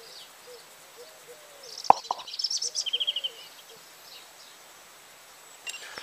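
Small birds chirping, with a quick run of high chirps and a short trill from about two to three seconds in, over faint lower calls in the background. A single sharp click about two seconds in is the loudest sound.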